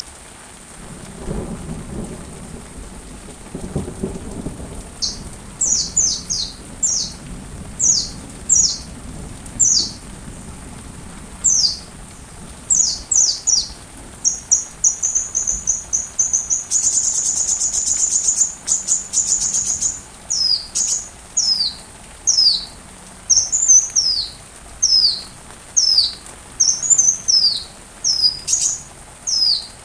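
Sunbird (kolibri) song: a run of sharp, high, down-slurred chirps, one or two a second, broken by a fast buzzy trill midway. Steady rain runs underneath, with a low rumble of thunder in the first few seconds.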